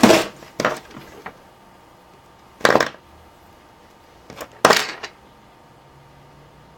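Wire cutters snipping and stripping the insulation off a black hookup wire: a few short, sharp snips and clicks at the start, then two more about two seconds apart.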